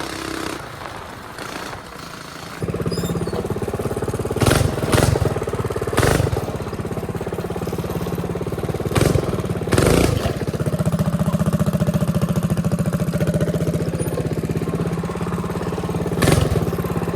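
A mini bike's small engine starts about three seconds in and keeps running steadily, a little higher in pitch after about ten seconds. Several short, loud bursts sound over it.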